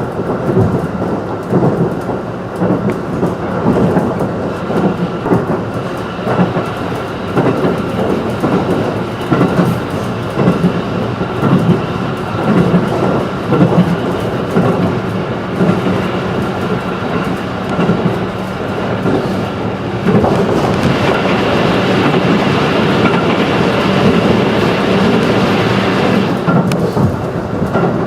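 JR 211 series electric train running at speed, heard from inside the carriage: a steady rumble of wheels on the rails with a steady electric motor hum. About two-thirds of the way through a louder rushing noise builds up and cuts off suddenly near the end.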